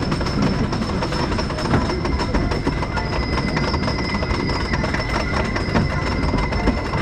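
Wooden roller coaster train running over its track: a steady rumble and rattle of wheels with rapid clicking and a faint steady whine over it.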